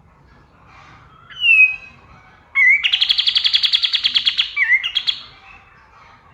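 Kapas tembak songbird singing: a single clear whistled note, then a loud, very fast rattling trill of sharp repeated notes lasting about two seconds, ending in a couple of quick falling notes.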